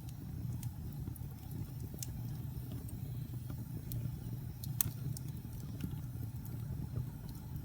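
Fire burning in a fireplace: a steady low rumble with scattered sharp crackles and pops, the loudest about five seconds in.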